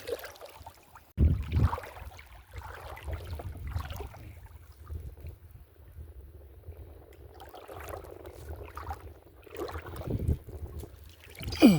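Water sloshing and splashing, with wind rumbling on the microphone; louder swishes about a second in and again at the end.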